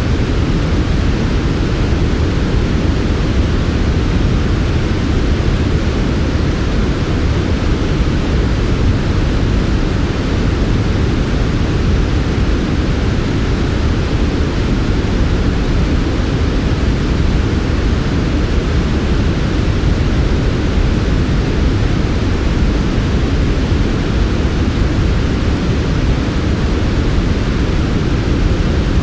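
Steady, smooth white noise for sleep, unchanging throughout, heavier in the low end than in the highs.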